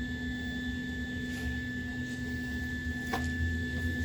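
A steady mechanical hum with a thin high whine held on one pitch, and two light clicks about a second and a half and three seconds in.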